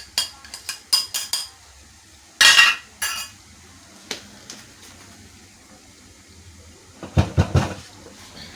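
Metal utensils and a cooking pot clinking and clattering: a quick run of light clinks in the first second or so, a louder clatter about two and a half seconds in, then a few dull knocks near the end.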